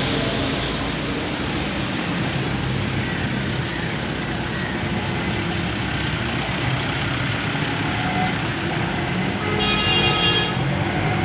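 Steady road traffic noise with vehicle engines running, and a vehicle horn sounding once, briefly, near the end.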